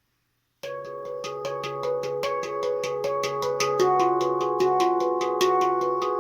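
Handpan in the C# Ragadesh scale played in quick, even strokes, about five a second, each note ringing on under the next. It begins about half a second in and grows louder.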